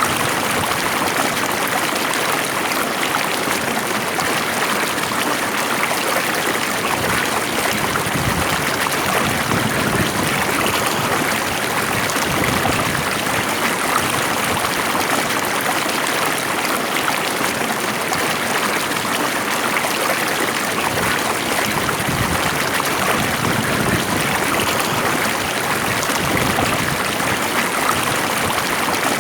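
Water flowing in a stream, a steady even rush without pause or change.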